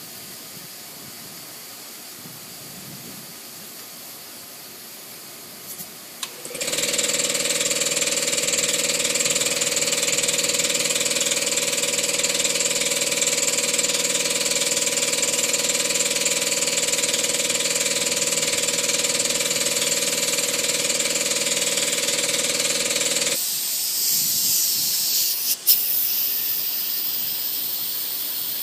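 Air-powered dryer vent cleaning line blowing through the vent duct to clear out lint. A faint hiss for about six seconds, then a loud steady blast with a steady hum and hiss that stops suddenly after about seventeen seconds, followed by a higher hiss and one sharp pop.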